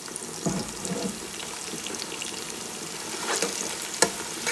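Pounded pepper, onion and crayfish paste frying in hot palm oil: a steady sizzle with small crackles, with a sharp knock about four seconds in.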